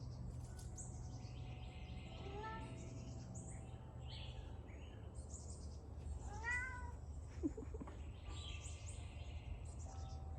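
A house cat meowing twice, about two and a half seconds in and again about six and a half seconds in, with faint bird chirps in the background.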